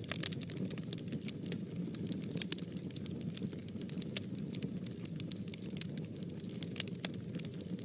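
Fire in a fireplace crackling: frequent irregular sharp pops and snaps over a steady low rush of burning.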